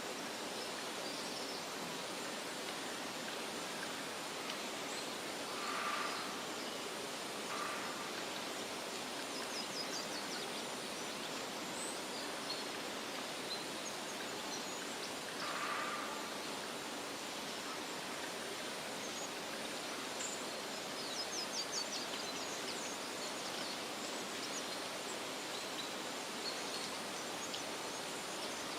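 Outdoor nature ambience: a steady hiss with a few short bird calls and clusters of quick, high chirps scattered through it.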